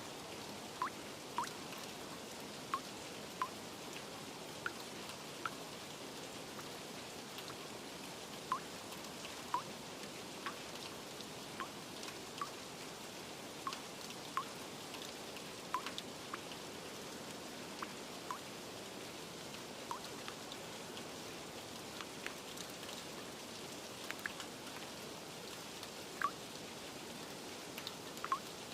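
Steady rain with water drips plinking at irregular intervals, roughly one a second.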